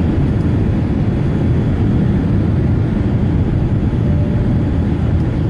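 Steady low rumble of a Boeing 787-8 Dreamliner's engines and rushing air, heard from inside the passenger cabin.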